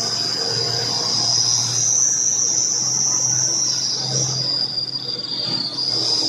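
A steady, high shrill insect chorus of cicadas or crickets drones throughout, with a slight waver in pitch. Beneath it, a truck engine runs with a low hum that swells and eases.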